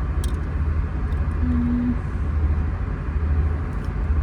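Steady low rumble heard from inside a parked car's cabin, the drone of an idling engine, with a few faint ticks.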